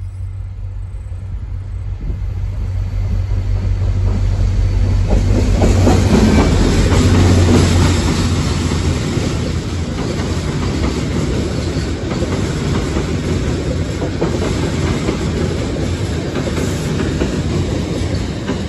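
NJ Transit diesel commuter train approaching and passing close by. The locomotive's rumble builds over the first several seconds and is loudest about six to eight seconds in, then the coaches run steadily past over the rails.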